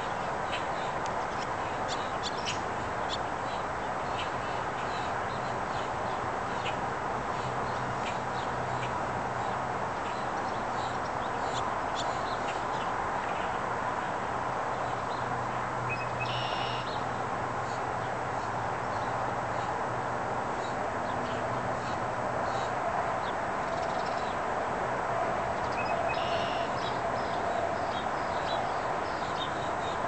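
Scattered short bird chirps, and twice a louder call lasting about a second, over steady outdoor background noise with a low hum.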